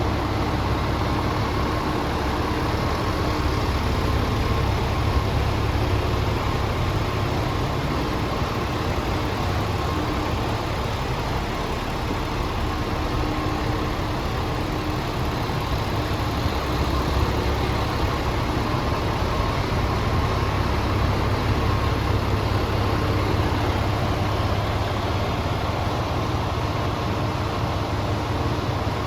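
Scania R500 tractor unit's 500 bhp Euro 6 diesel engine idling steadily, with no revving.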